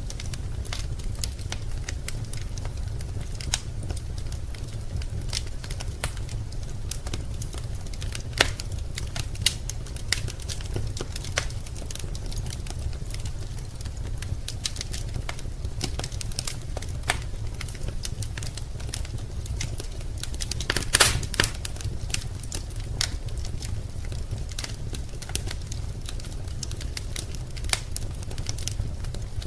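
Wood fire burning in a fireplace, crackling with irregular sharp pops and a quick flurry of pops about twenty seconds in, over a steady low rumble.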